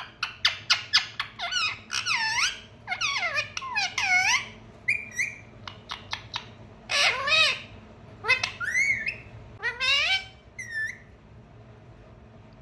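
Pet parrot calling: a quick run of short sharp chirps, then a series of swooping squawks that dip and rise in pitch, stopping shortly before the end.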